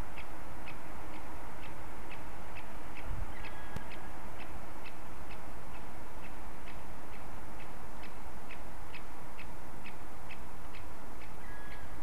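A bird giving a short, sharp high call over and over, about twice a second, over a steady background hiss.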